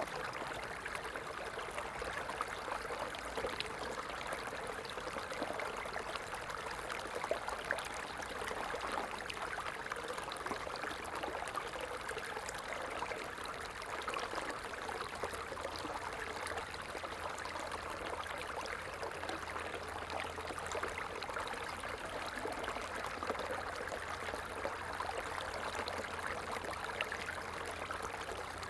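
Stream water flowing steadily over rocks, a continuous babbling rush. A faint low hum comes in about halfway through.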